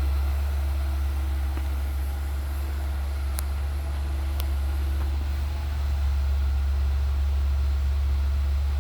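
A 2003 Ford Escape's 3.0L V6 engine idling steadily with a low, even drone. Two faint clicks come about a second apart near the middle.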